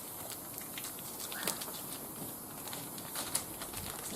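A small wood fire burning in a barbecue grill, crackling with irregular light pops and snaps.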